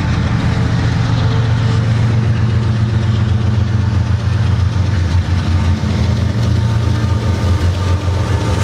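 Union Pacific diesel locomotives hauling a stack train, their engines running with a steady low drone.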